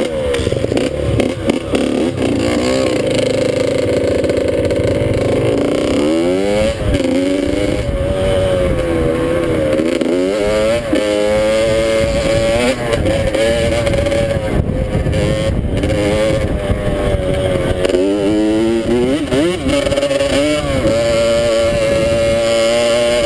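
Dirt bike engine running under riding, its pitch climbing and falling again and again as the rider revs through the gears.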